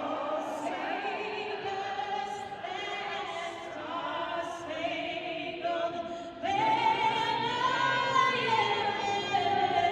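A singer holding long notes over an arena's sound system, with the crowd's noise beneath; the voice steps up to a louder, higher passage about six and a half seconds in.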